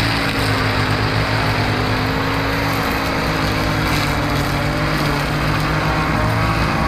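Lawn mower engine running steadily under load while cutting grass.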